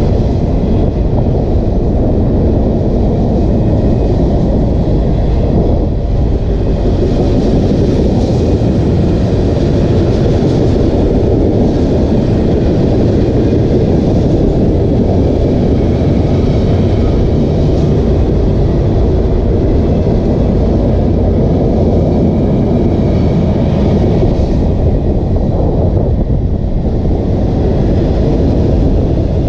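Union Pacific mixed freight train rolling past, a loud steady rumble of wheels on rail that keeps an even level throughout.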